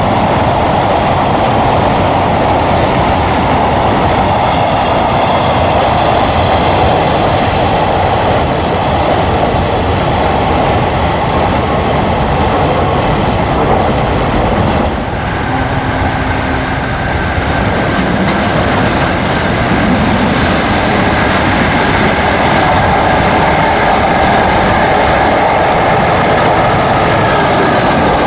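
Freight trains passing on the rails with steady wheel and rail noise and some clickety-clack. The first, a container train, clears about halfway. A second one, hauled by an electric locomotive, then comes up and passes close by, adding a steady whine.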